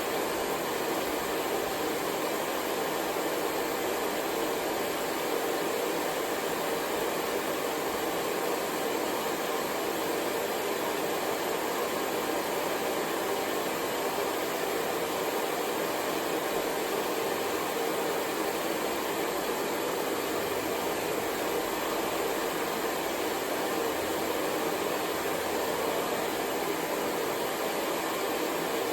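Hair dryer running steadily, a continuous even blowing whirr used as white noise.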